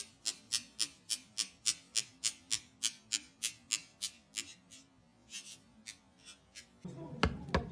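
Sharp, evenly spaced ticking or tapping, about three ticks a second, that thins out to a few faint ticks about two thirds of the way in. Near the end a louder, noisier sound cuts in with a couple of sharp clicks.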